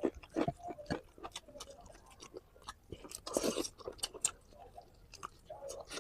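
Close-up chewing and mouth smacking of food, with many short wet clicks at an irregular pace and a longer, noisier burst a little past halfway.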